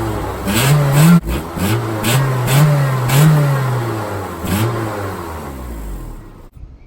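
Acura Integra's four-cylinder engine being revved through its exhaust in about five quick blips, the pitch rising sharply each time and dropping back toward idle in between. The sound fades and cuts off shortly before the end.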